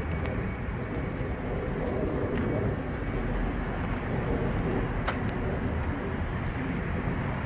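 Steady low rumbling background noise, with one sharp click about five seconds in.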